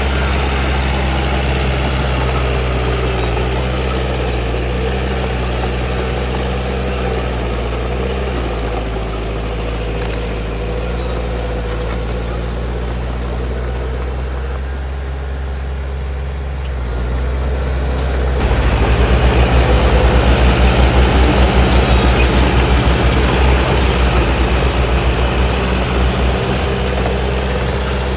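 Heavy diesel engine of earthmoving machinery running steadily. About two-thirds of the way through it gets louder, with a fast throbbing as the engine comes under more throttle or load.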